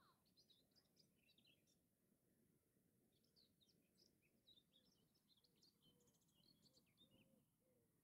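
Faint birdsong: a steady run of short chirps and trills over a low hum of background noise.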